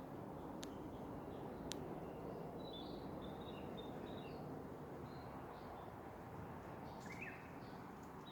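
Small birds chirping in short, high, repeated phrases over a steady low outdoor hiss. Two sharp clicks come in the first two seconds.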